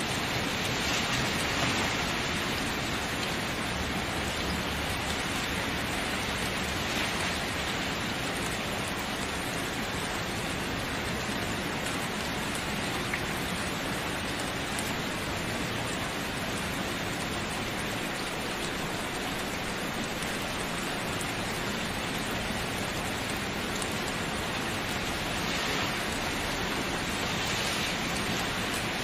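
Steady, continuous rainfall: an even hiss of rain with slight swells in intensity near the start and near the end.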